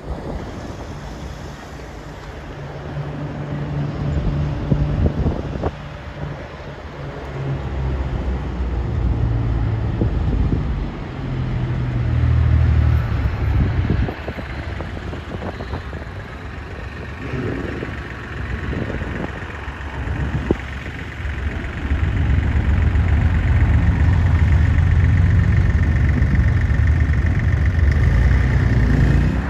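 Car engines running and accelerating, with the engine pitch shifting several times; the loudest and most sustained stretch comes in the last third.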